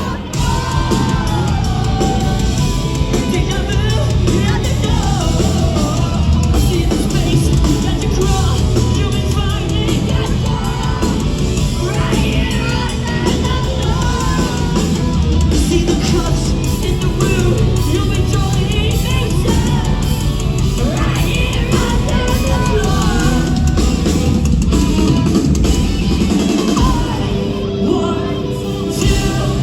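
A live rock band playing loudly: a pounding drum kit, guitars and a singer with yelled, high vocals.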